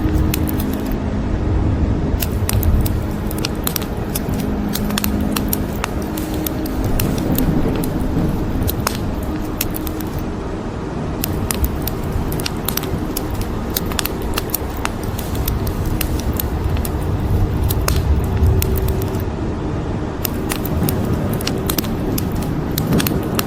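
Wood fire crackling with frequent sharp pops and snaps, over a steady hiss of rain and low rolling thunder that swells and fades a few times.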